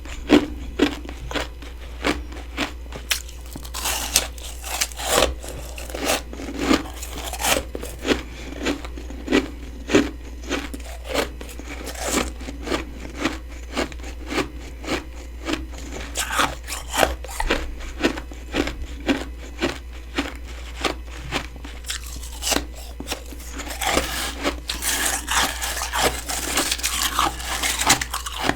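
Close-miked crunching of freezer frost, a person biting and chewing powdery frost ice in a steady run of crisp crunches about one to two a second. Near the end the crunching turns denser and hissier.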